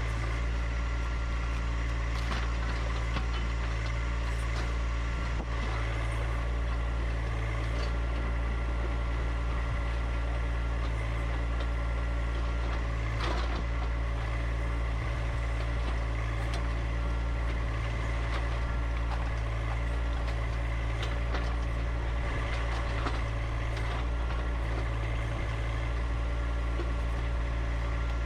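A John Deere 1025R compact tractor's three-cylinder diesel engine running at a steady speed, with a few faint clicks and knocks over it.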